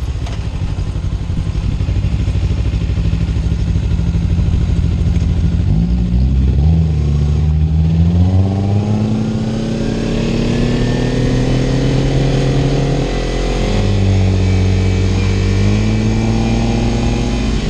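Kawasaki Ninja 300's parallel-twin engine and exhaust under way. The engine runs steadily, then climbs in pitch for several seconds of acceleration starting about a third of the way in, eases off, and picks up again near the end.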